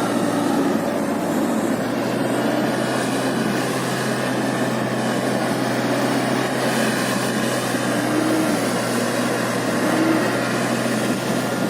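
Toyota Land Cruiser engine running steadily while the vehicle is under way, a continuous drone with slight rises and falls in pitch.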